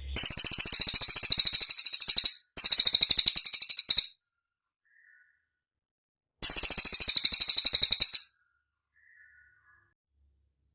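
Cililin bird singing: three very high-pitched, fast rattling trills of about two, one and a half and two seconds, each made of rapid rhythmic pulses, with a couple of soft short notes in the gaps.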